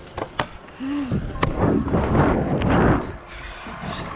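A kick scooter on a skatepark run: a couple of sharp clacks and a short vocal sound, then about a second and a half of loud rushing noise of wheels and wind that cuts off about three seconds in.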